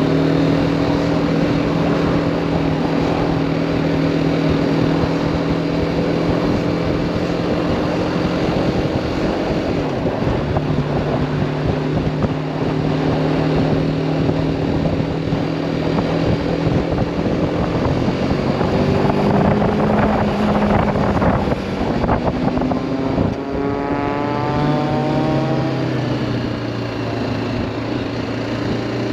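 BMW G310R single-cylinder motorcycle engine running at steady road revs over wind noise, with the revs changing a few times; near the end the pitch climbs under throttle, then drops to a lower steady note.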